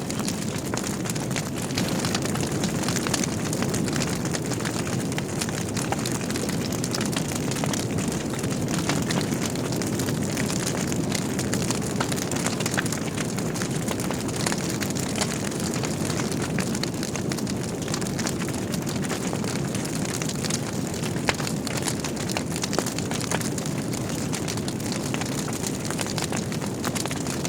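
Wood logs burning in a fireplace: frequent small crackles and pops over a steady low rushing noise of the fire.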